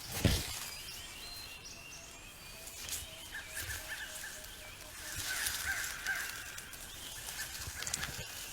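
Outdoor natural ambience with birds calling repeatedly in short thin notes through the middle of the stretch, and a brief low knock right at the start.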